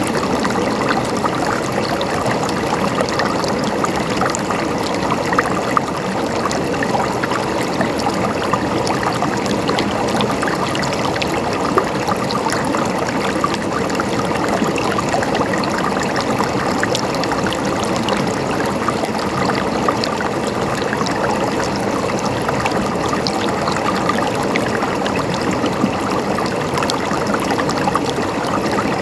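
Flowing stream water gurgling steadily, with a dense patter of tiny splashes and no pauses.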